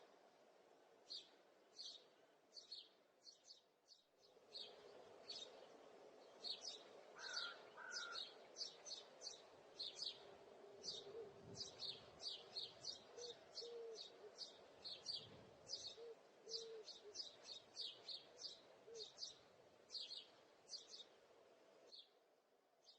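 Small birds chirping: a long run of short, high chirps, several a second at its busiest, heard faintly over a steady low background hum.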